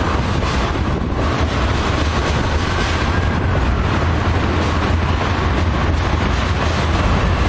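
A train rolling past, a steady loud noise of wheels and cars on the rails, with wind buffeting the microphone.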